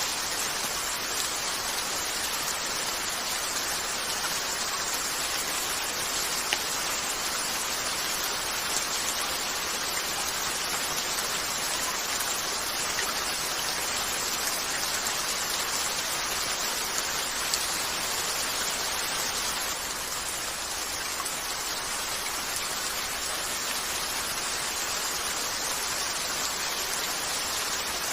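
Steady rain falling on a window, an even hiss, with a few isolated sharp ticks.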